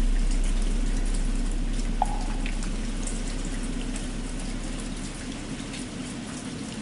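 Steady rain, over the low hum of a large bell slowly dying away after a stroke. A single hollow knock of a wooden fish (muyu) about two seconds in.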